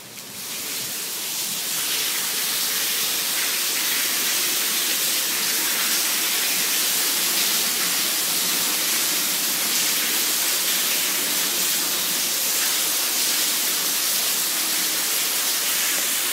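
Rainwater pouring off a structure in a heavy downpour, a loud steady rushing hiss of falling and splashing water. It swells over the first couple of seconds, then holds even.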